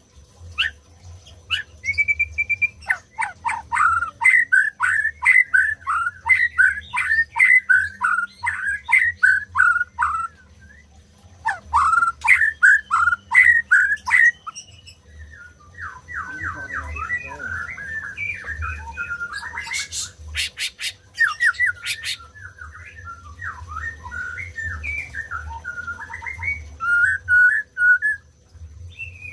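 White-rumped shama (murai batu) singing: runs of rapid, repeated falling whistled notes, then a quicker, varied twittering phrase with a brief burst of sharp clicks about two-thirds of the way through.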